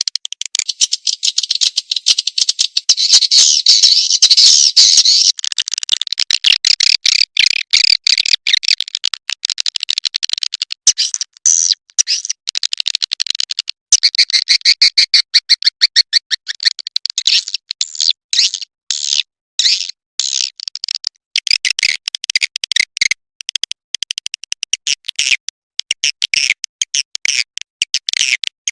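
Recorded swiftlet lure call, the kind played through tweeters to draw swiftlets to a nest house: rapid, high chittering and clicking chirps in long runs with short breaks.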